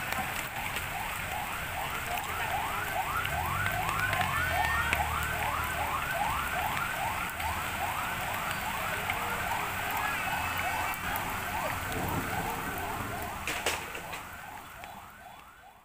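Electronic siren sounding a fast repeating whoop, quick rising sweeps about two to three a second, over a steady hiss; it fades out near the end.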